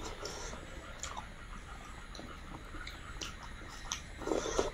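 Mouth and hand sounds of people eating rice and curry with their fingers: scattered small clicks and smacks of chewing, with a short louder sound near the end.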